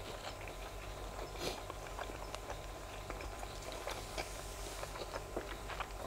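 Close-miked chewing of grilled sausage with the mouth closed: many soft, irregular wet clicks and smacks.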